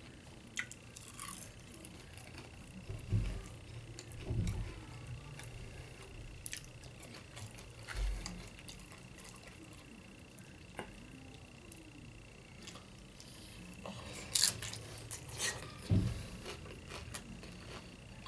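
Close-up eating of Doritos nachos: scattered crunches and wet mouth clicks from chewing, with a few dull thumps. A faint steady high whine runs underneath.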